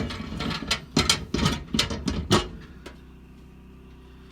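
Clattering clicks and knocks of a microwave's turntable roller ring and glass tray being handled and set back in place, stopping about three seconds in. A low steady hum is left after that.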